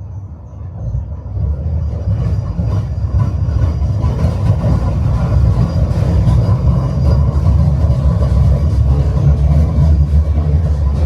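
Tram running on its rails, heard from aboard: a steady low rumble of wheels and car body that grows louder over the first few seconds and then holds.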